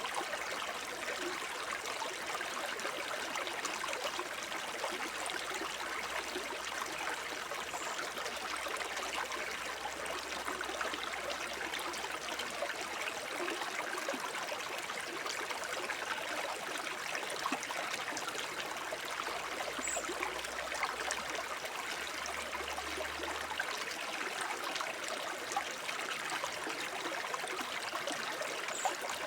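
Small forest brook babbling over stones: a steady splash and gurgle of shallow running water.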